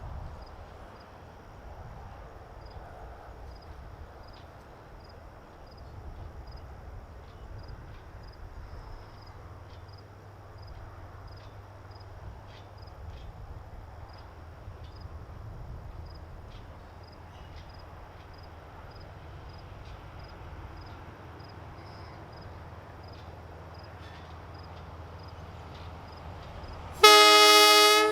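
Low steady rumble with faint, regular high ticks, then near the end a short, loud blast from the East Troy electric railway train's horn.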